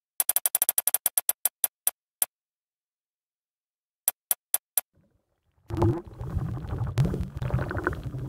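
Website sound effect of a spun bicycle wheel ticking: a quick run of sharp ticks that slows over about two seconds as the wheel winds down, then four more ticks about four seconds in. About two seconds before the end a loud, low, wobbling synthesizer-like sound starts.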